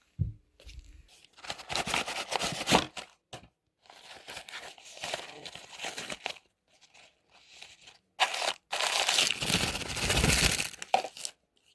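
Crinkling and rustling noise in three main stretches, each a couple of seconds long, with abrupt silent gaps between them.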